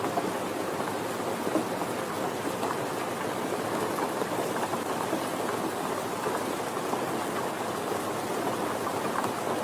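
Steady rain falling, a dense hiss with many small drop taps.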